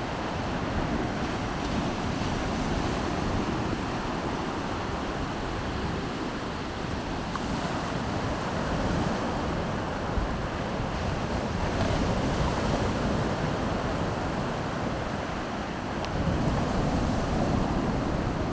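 Baltic Sea surf washing onto the beach, a steady rush that swells louder every few seconds as waves break, with wind buffeting the microphone.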